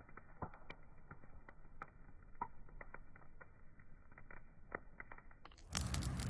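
Wood fire crackling, with scattered sharp pops and snaps over a faint hiss. Near the end a much louder burst of rushing noise breaks in.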